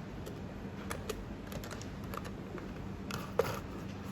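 Light, irregular clicks and taps of a small screw and T10 screwdriver against a fusion splicer's outer cover as the screw is fitted, with a sharper tap about three and a half seconds in.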